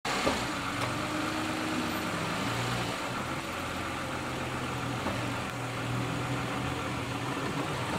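Toyota Sienna's 3.5-litre V6 idling steadily, a low hum heard from the open engine bay.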